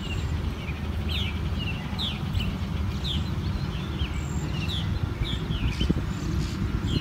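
Small songbirds chirping, short high chirps about twice a second, over a steady low rumble.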